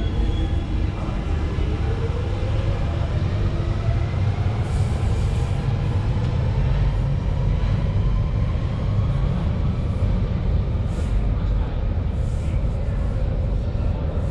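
A Central Line 1992-stock tube train running through the station tunnel, with a deep continuous rumble and a motor whine that rises slowly in pitch over the first several seconds as the train gathers speed.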